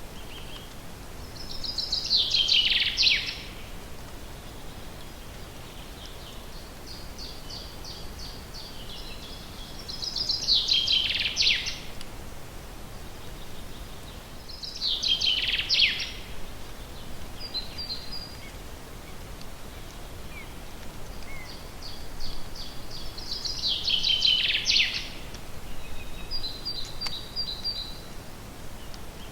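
A songbird singing in a forest, repeating a short song about four times, each a quick run of notes that falls away at the end, with softer trills from other birds in between.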